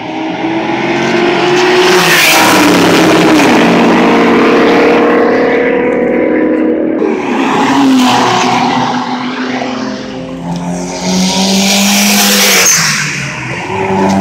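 Street-racing cars accelerating hard and speeding past close by, engines revving high with the pitch rising and then falling as they go by. It happens twice, with a second loud pass about eleven seconds in.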